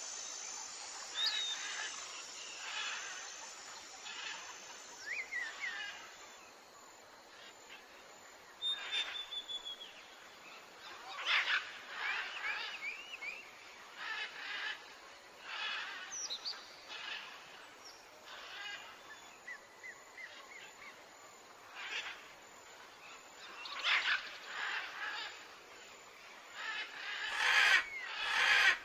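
Birds calling and chirping in short bursts every second or two, some calls sliding quickly in pitch, loudest near the end.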